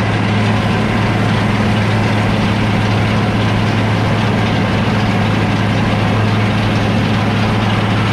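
International 1086 tractor's diesel engine running steadily while the tractor mows hay with a mower-conditioner, a constant drone with no change in pitch.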